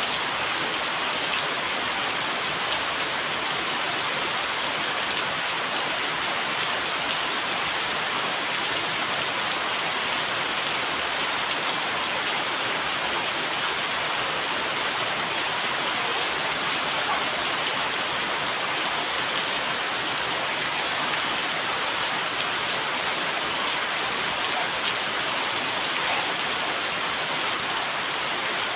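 Steady rain falling: an even, unbroken hiss of rain on surfaces, with many small drop ticks through it.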